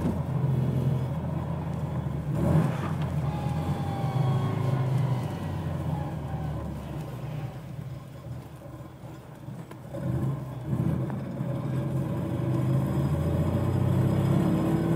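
Panhard PL17's air-cooled flat-twin engine running as the car drives, easing off in the middle and picking up again near the end. A metallic rattle resonates from the engine compartment: the loose upper cover of the air filter.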